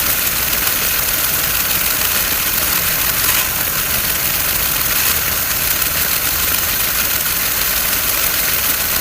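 A remote-control toy vehicle running, giving a steady, unbroken engine-like noise.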